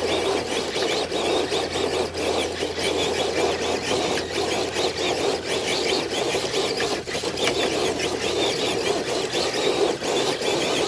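Radio-controlled truck's electric motor and drivetrain whining under load as it drags a weighted dead sled: a steady, noisy whine with irregular crackles.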